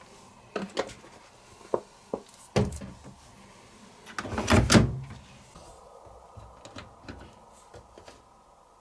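Plastic detergent drawer of a washing machine being handled, giving a string of sharp clicks and knocks and one louder rattling slide-and-knock about halfway through.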